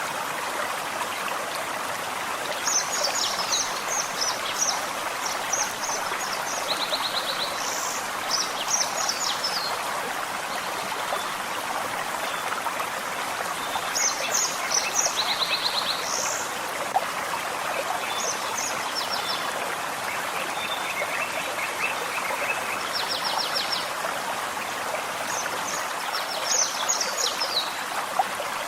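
A gentle forest stream runs steadily, a continuous rush of flowing water. Songbirds sing over it in short bursts of high chirps and quick trills, every few seconds.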